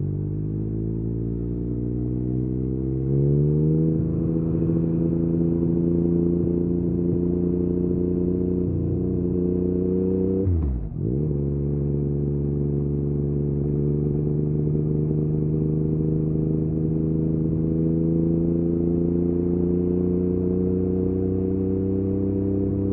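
Yamaha MT-09's three-cylinder engine through an Akrapovic exhaust, pulling under steady throttle with the revs slowly climbing. About three and a half seconds in it gets a little louder and higher, and around eleven seconds in the revs dip sharply and come straight back, as at a gear change.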